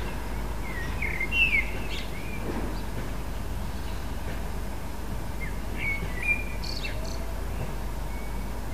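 Small birds chirping, a few short gliding chirps about a second in and again around six seconds in, over a steady low hum of background noise.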